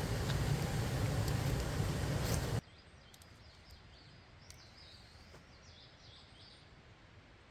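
A steady rushing noise with a few sharp clicks cuts off abruptly about two and a half seconds in. It gives way to quiet outdoor ambience in which a bird chirps several times.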